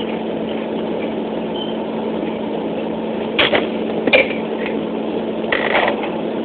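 Steady hum with a constant low tone, broken by a few short knocks and rustles as containers are handled and moved around in a refrigerator, about halfway through and again near the end.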